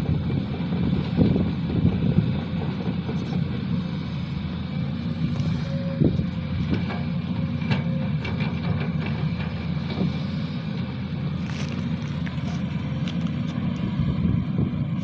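Sany SY215C excavator's diesel engine running steadily at work, with a few short knocks and clicks scattered through it.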